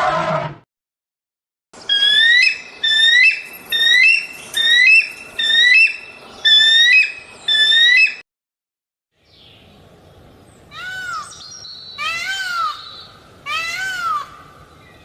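A bird calling again and again, about ten short rising chirps in a row. After a pause, a cat meows a few times, each meow rising and falling in pitch.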